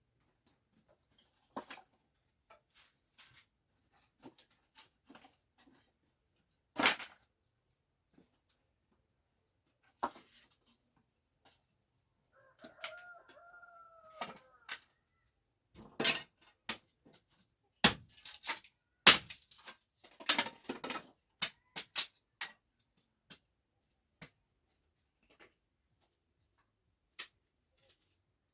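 Irregular sharp knocks and clacks, loudest in a cluster in the second half. About halfway through comes one pitched call of about two seconds that falls slightly at the end.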